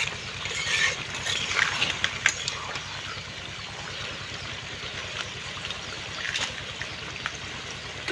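Chicken curry sizzling and simmering in a pan, with a spatula knocking and scraping against the pan a few times in the first couple of seconds, over a steady low hum.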